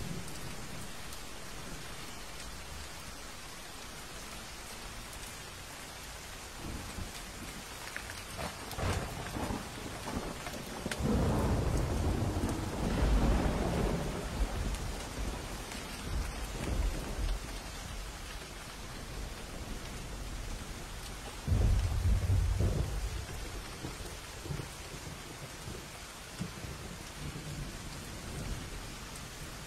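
Thunderstorm: steady heavy rain hissing, with thunder rolling through it. Faint crackles come in about a quarter of the way in, a long deep rumble swells up about eleven seconds in and lasts a few seconds, and a second loud clap of thunder breaks suddenly about two-thirds of the way through.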